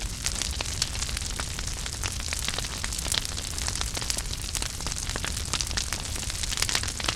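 Wood fire burning in a fireplace: a steady hiss and low rumble with many sharp, irregular crackles and pops.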